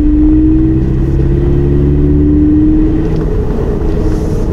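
Toyota 86's FA20 flat-four engine pulling hard uphill under heavy throttle, heard inside the cabin through its sound creator, which pipes intake sound into the car. The engine note rises slowly, then eases a little about three seconds in.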